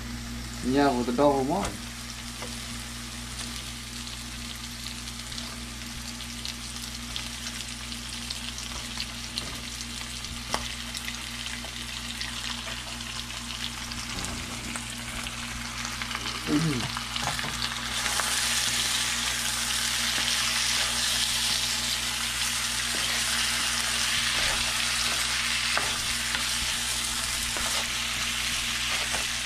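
Chopped aromatics frying in oil in a nonstick frying pan, stirred with a wooden spoon. The sizzle grows louder about two-thirds of the way in, once raw fish pieces are in the pan.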